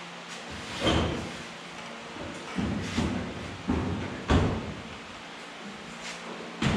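Sheet-metal clunks and thuds from a car body being worked on, about six irregular knocks with a short ring after each, the loudest about four seconds in.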